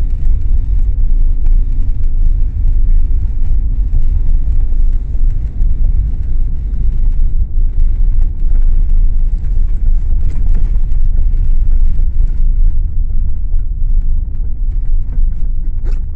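Steady low rumble of a moving car, heard from inside the cabin: engine and road noise.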